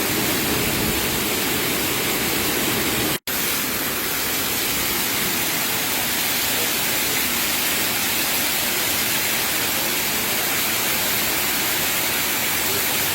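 Steady rushing of heavy water, a loud even hiss, briefly cut off by a short gap about three seconds in.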